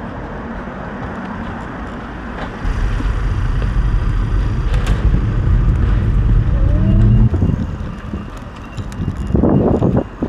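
A motor vehicle passes close by in road traffic: a low rumble that swells for several seconds, with a short rising engine note just before it fades.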